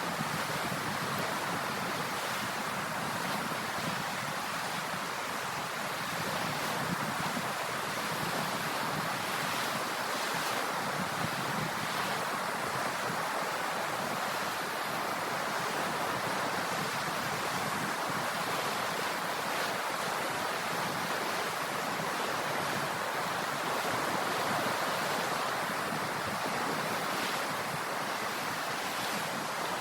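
Ocean surf washing on the shore: a steady, even rush of waves without distinct breaks.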